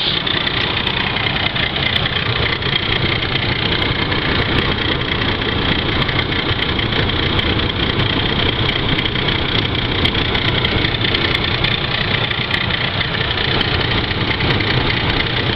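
Ford Crown Victoria's 4.6-litre V8 idling steadily about five minutes after startup, with a constant higher-pitched whirring over the engine's running; this is the engine noise its owner is recording.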